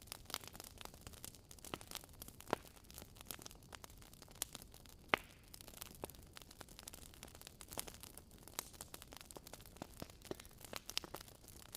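Wood fire crackling in a fireplace: irregular pops and snaps over a faint hiss, with two louder pops, one about two and a half seconds in and one about five seconds in.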